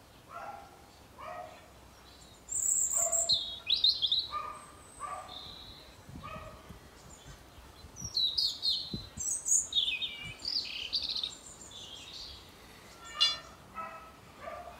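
Garden birds chirping and singing in quick high phrases, loudest about two to four seconds in and again around eight to eleven seconds. Underneath, a quieter short call repeats about once a second.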